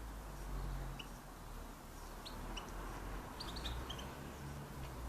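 Small garden birds chirping with short, high call notes scattered through, and a quick cluster of several about three and a half seconds in, over a steady low rumble.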